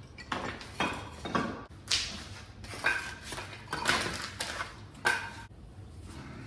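A piece of artificial cultured stone being scraped down by hand to fit, with a series of about ten short rasping strokes, roughly every half second to second, stopping near the end.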